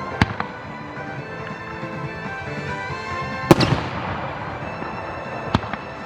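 Fireworks shells bursting over background music: a sharp bang just after the start, a louder bang about three and a half seconds in followed by a brief crackle, and another bang near the end.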